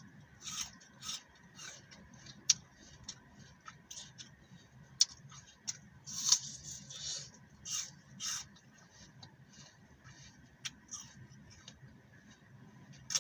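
Crisp green apple being bitten and chewed close to the microphone: irregular crunches and wet clicks, with heavier crunching about six and eight seconds in.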